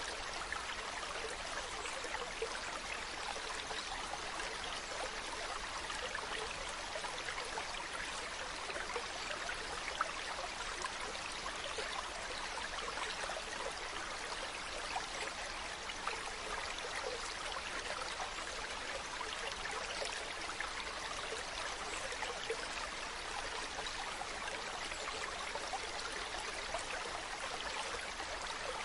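Mountain stream running over rocks: a steady rushing with a fine, constant splashing and trickling.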